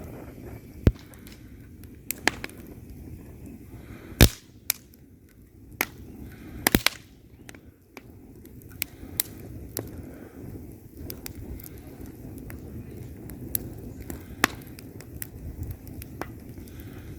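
Wood fire burning in a fireplace: a low steady rumble of flames with irregular sharp pops and crackles from the burning logs, the loudest pops about 1, 4 and 7 seconds in.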